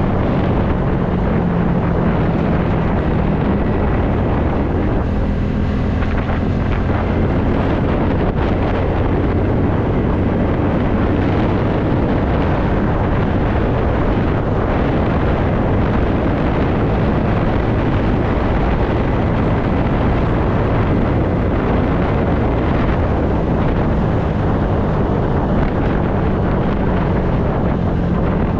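Wind rushing over the microphone while riding a TVS Ntorq scooter, with the scooter's engine and the road noise running underneath at a steady speed.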